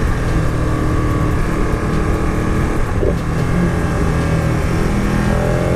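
Motorcycle engine running under way at fairly steady revs, with wind rushing past, its pitch starting to rise near the end as it accelerates.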